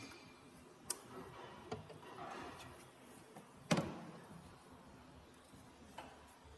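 A few scattered sharp knocks and clicks over faint background noise, the loudest a little under four seconds in.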